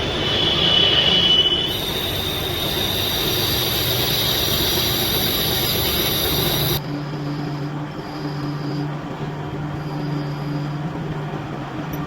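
Metal-turning lathe running as it machines a steel hydraulic piston, with a steady high-pitched whine over the machine's noise. About two-thirds through the sound changes abruptly to a lower, steady hum with faint high tones coming and going.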